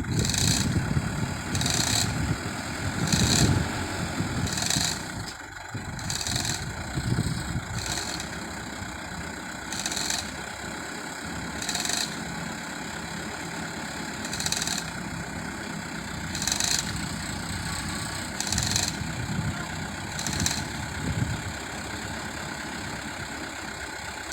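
Dump truck engine running at idle, a steady low rumble, with short high-pitched rasping bursts every second or two.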